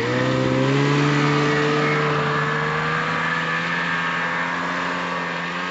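Snowmobile's 850 turbo two-stroke engine held at high revs under steady throttle, its pitch nearly constant after climbing just before.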